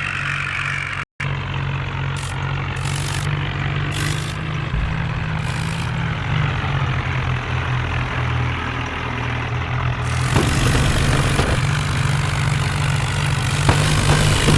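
Diesel engine of a John Deere 5055 tractor running steadily, with a brief dropout about a second in and more rattle and rushing noise over the last few seconds.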